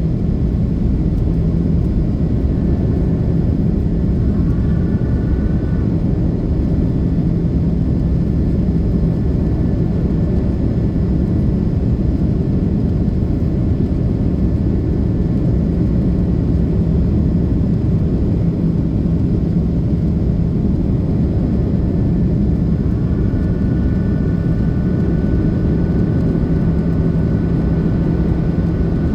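Cabin noise of an Airbus A330-300 with General Electric CF6 engines at high thrust during takeoff: a loud, steady low rumble with a faint high whine that comes and goes.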